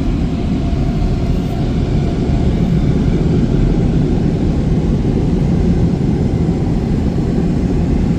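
Car wash air dryer blowers, which appear to be Nu-Star's own dryers, running loud and steady as they blow the car dry.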